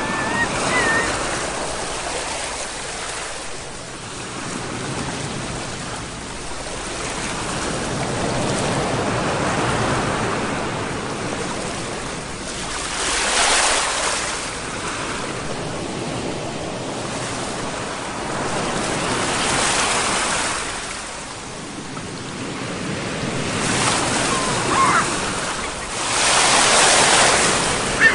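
Ocean waves breaking and washing on a shore, a hiss that swells and recedes every few seconds, with the strongest surges about halfway through and near the end.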